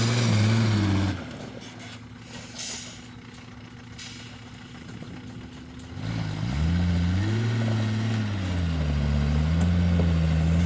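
Dump truck's diesel engine running, cut off abruptly about a second in, leaving a faint steady hum and a brief knock. About six seconds in a truck engine runs again, its pitch rising and falling as it is revved.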